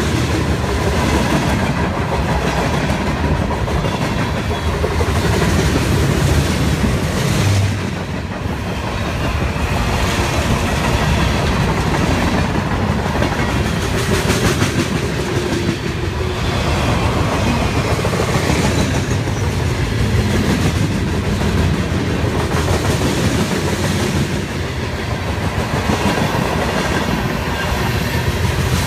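A train rolling past on its rails, the steel wheels making a steady clickety-clack over the rail joints for the whole stretch.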